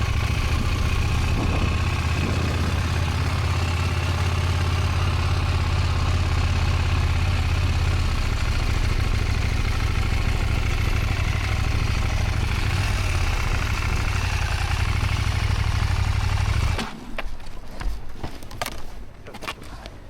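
Learner's motorcycle engine running steadily at low speed, then cutting out suddenly about seventeen seconds in, followed by a few light clicks and knocks.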